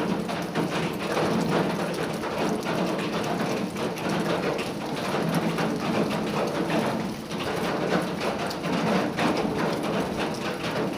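Rain pattering steadily on a sheet-metal roof, a dense continuous spread of drop impacts.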